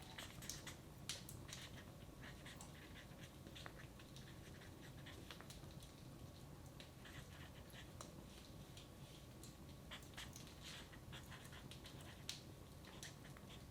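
Wood fire in a fireplace crackling faintly: irregular small pops and snaps, a few louder ones, over a steady low hum.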